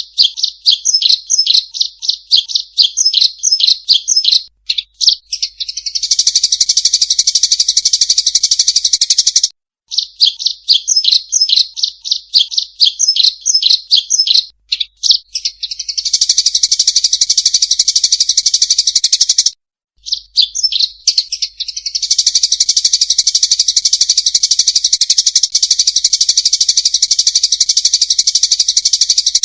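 Eurasian tree sparrows giving loud, rapid fighting chirps that run into a dense, unbroken chatter. The same sequence repeats about every ten seconds with brief silent breaks, as in a looped training recording.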